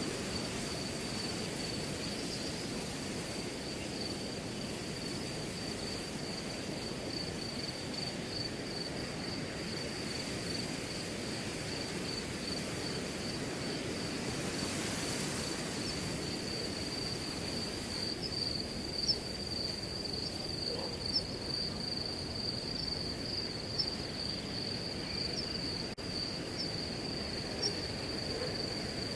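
Wind rustling through a grass field as a steady hiss, with crickets trilling continuously in a high, even tone. A few faint ticks come in the second half.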